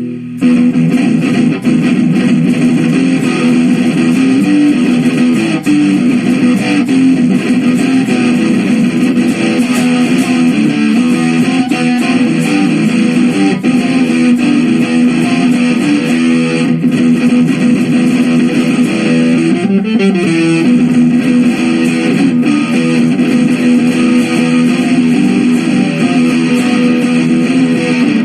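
Electric guitar being played, strummed chords and riffs, on a freshly restrung and set-up guitar.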